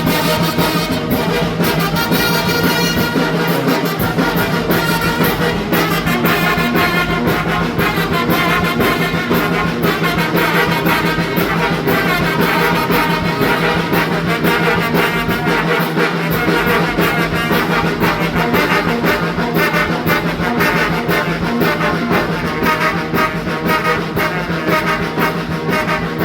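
Mexican brass banda playing a huapango, trumpets and trombones carrying the melody over a steady beat of bass and percussion.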